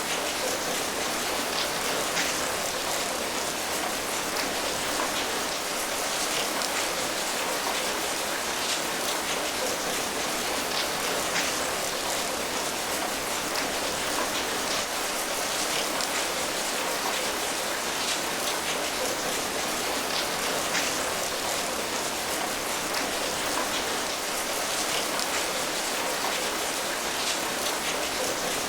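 Steady rainfall with the patter of many individual drops over an even hiss, unchanging in level throughout.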